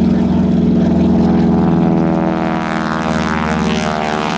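North American T-6 Texan's nine-cylinder Pratt & Whitney R-1340 Wasp radial engine and propeller running with a steady, loud drone.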